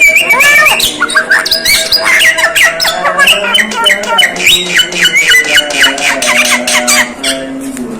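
Javan myna giving a rapid, varied run of squawks, whistled glides and clicks, easing off near the end.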